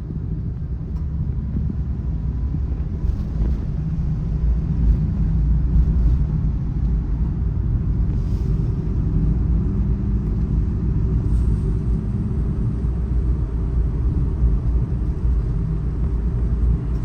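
Kei truck driving, heard from inside the cab: a steady low rumble of engine and road noise.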